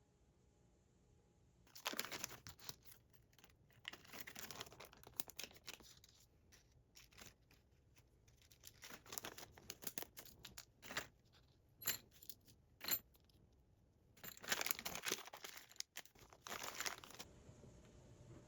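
Things being handled: bursts of rustling and crinkling, like paper or plastic being crumpled or torn, with two sharp clicks near the middle.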